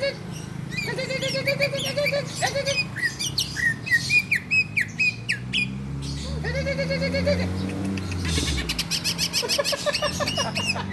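Cucak ijo (green leafbird) singing a varied song of quick, sharp down-slurred chirps and buzzy rattling trills.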